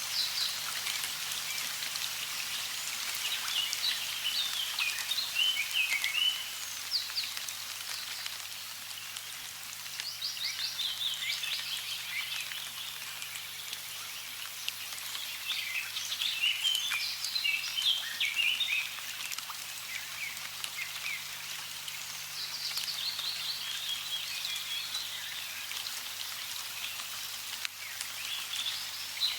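Running water with a steady splashing hiss, and birds singing in short, quick phrases that recur every few seconds.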